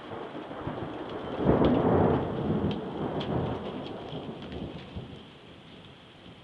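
A thunder clap rolls in about a second and a half in, its rumble peaking then slowly fading over several seconds, over steady rain with scattered drips.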